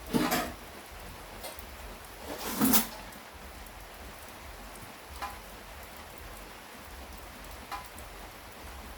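Steady rain falling. Two short, louder scuffing noises stand out, one right at the start and one a little under three seconds in, with a few faint clicks between them.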